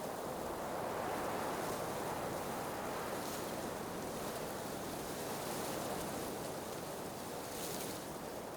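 Blizzard wind blowing, a steady rushing noise that swells and eases slowly.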